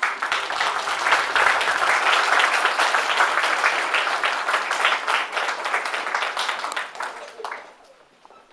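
Audience applauding: dense clapping that starts suddenly, holds steady, then dies away after about seven seconds with a few last claps.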